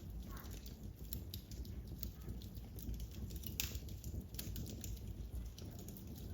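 Wood fire crackling in a fireplace: irregular sharp pops and snaps over a low rumble, with one louder snap a little past the middle.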